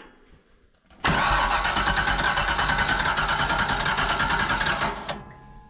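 An engine running loudly with a fast, rough flutter. It starts abruptly about a second in and dies away about four seconds later.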